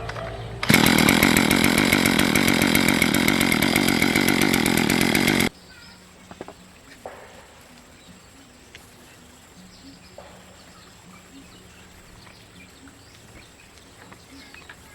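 A loud motor running with a rapid buzzing pulse for about five seconds, stopping abruptly. Faint clicks and taps follow.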